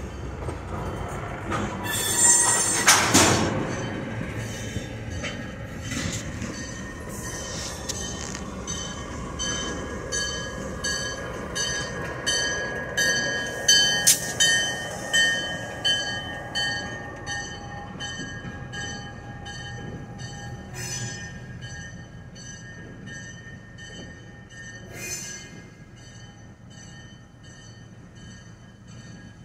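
A slow-moving freight train of tank cars on the interchange track, its steel wheels squealing against the rails in steady high whistles. There is a loud burst of noise about two seconds in, and a run of regular clunks, about one every two-thirds of a second, in the middle. The sound fades toward the end.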